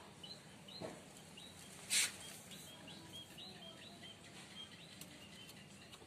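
Small birds chirping in quick, short notes. A brief, loud, rustling handling noise comes about two seconds in, and a softer knock just before the first second, as a clutch plate is handled.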